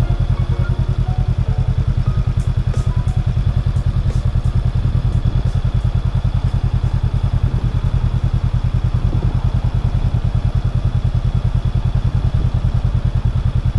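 Honda Rebel 500's parallel-twin engine running steadily, with an even, rapid pulsing beat and no rise or fall in revs.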